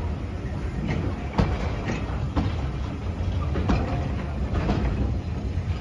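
Heritage railway passenger coaches rolling past: a steady low rumble with a few sharp clicks as the wheels run over the rail joints.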